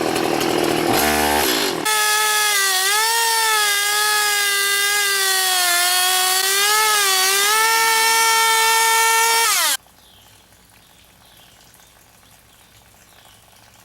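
Chainsaw cutting into a homemade jon boat. It revs down and then runs at high throttle, its pitch sagging under load and recovering a few times. It cuts off abruptly near the end, leaving only faint background.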